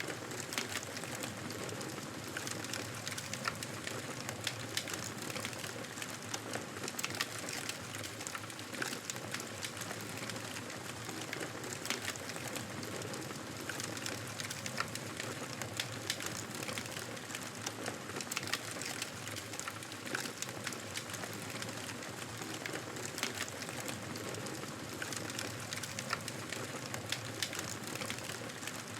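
Wood fire burning in a fireplace: a steady hiss of flames with frequent sharp crackles and pops at irregular intervals.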